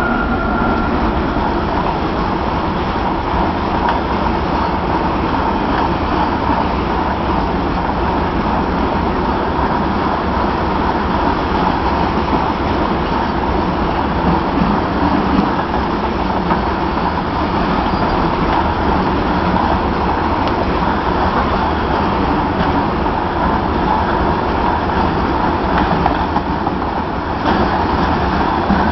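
Train running, a loud steady noise of a train in motion with a faint steady whine through it. A higher tone dies away about a second in.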